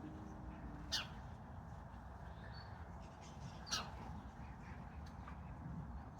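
Wild garden birds calling: two short, sharp calls about a second in and again near the middle, with fainter chirps between, over a steady low outdoor rumble.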